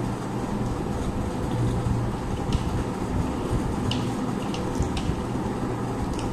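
Eating sounds: a few short wet clicks and smacks of chewing and of fingers working rice and curry, over a steady low rumble.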